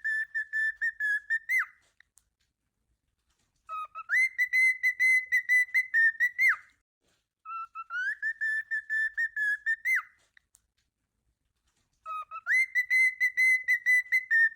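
Cockatiel whistling the same short phrase over and over, about every four seconds: each starts low, slides up to a held note with a fast warble, then breaks off with a quick drop.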